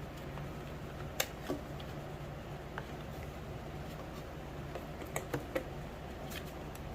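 Scattered light clicks and taps from small hardware and cords being handled, a few close together about five seconds in, over a steady low hum.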